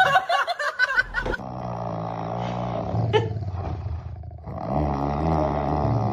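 A dog's long, low, drawn-out growling vocalization in two long stretches, broken by a short pause about four seconds in, after a quick flurry of short, choppy sounds at the start.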